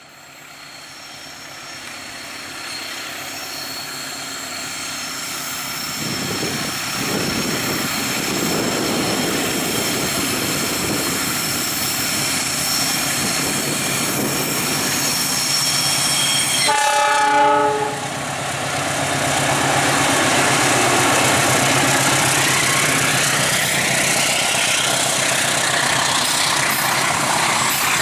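Diesel locomotive hauling a container freight train, approaching and passing, its engine and wheels growing steadily louder with a high steady whine over the rumble. About 17 seconds in the locomotive's horn gives one short blast, then the loaded container wagons rumble past.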